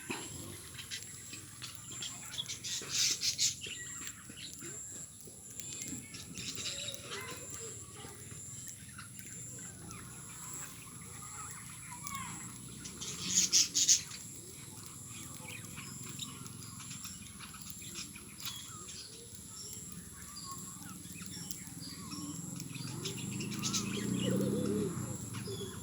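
Pet lovebirds chirping, with two short bursts of loud, shrill calls, one about three seconds in and one about halfway through.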